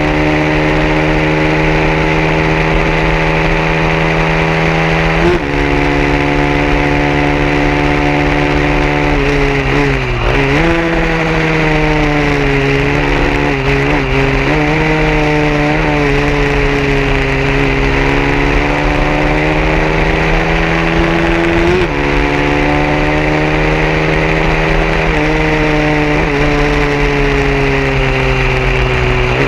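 150cc racing motorcycle engine running hard at high revs. Its pitch drops sharply several times, at about five, ten, twenty-two and twenty-six seconds in, with a deeper dip around ten seconds before it climbs back.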